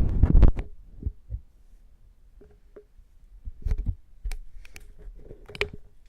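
Ear-cleaning tool working inside a silicone ear model close to the microphone: a dense scraping rustle in the first half second, then scattered soft clicks and taps with dull thuds, the loudest about four and five and a half seconds in.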